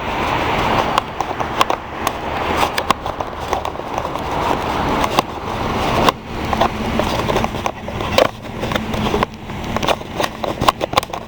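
Irregular sharp taps of raindrops hitting the camera microphone over a loud, fluctuating rumbling noise.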